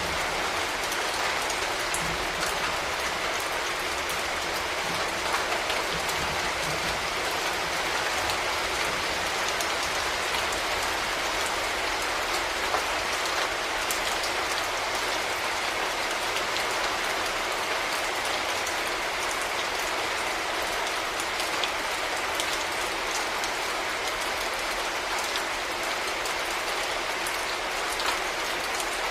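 Steady rain with scattered drops pattering on a surface, with a faint low rumble near the start.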